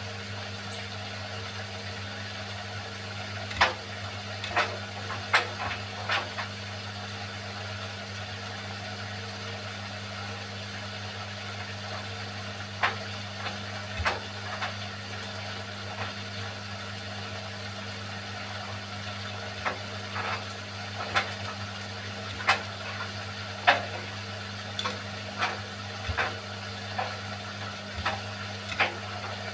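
Beko washing machine running a hand wash cycle: a steady low hum with irregular sharp clicks and knocks as the pencil case tumbles against the drum.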